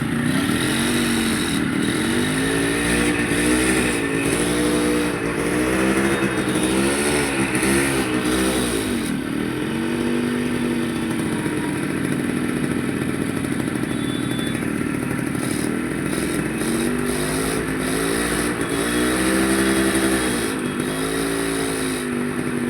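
Yamaha RX100's two-stroke single-cylinder engine being revved again and again with quick throttle blips, each rising and falling in pitch. It settles to steadier running for several seconds in the middle, then is blipped again near the end.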